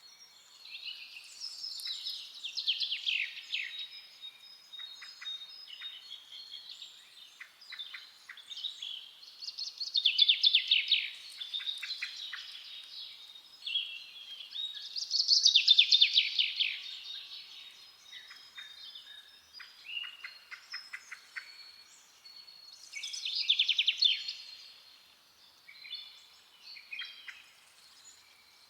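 Several forest songbirds singing: loud, fast-trilled song phrases every few seconds, with softer chirps and calls from other birds in between.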